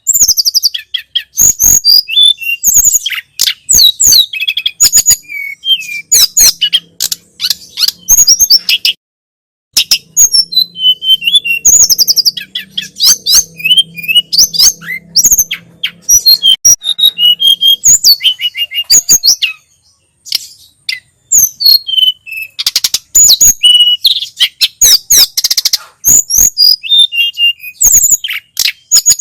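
Tledekan gunung (sulingan gunung), a small songbird, singing a fast, continuous run of high chirps, whistled notes and trills, with one brief pause about nine seconds in. A faint low hum lies under the song for a stretch in the middle.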